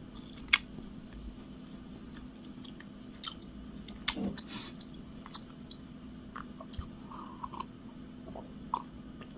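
A person chewing a doughnut with the mouth close to the microphone: soft, scattered mouth clicks and smacks.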